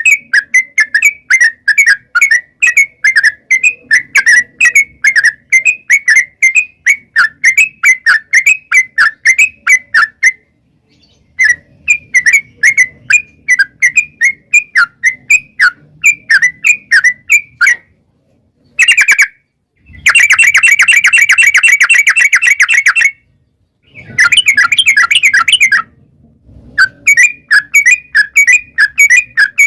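Yellow-vented bulbul (trucukan) singing a long, rapid run of loud chattering notes, about three or four a second, broken by a few short pauses. About twenty seconds in, it speeds into a dense, fast rolling trill for a few seconds.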